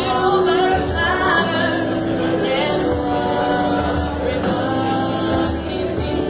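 A woman singing, holding long, steady notes.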